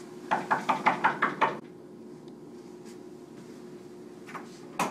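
Rapid knocking on a door, about seven quick knocks in just over a second.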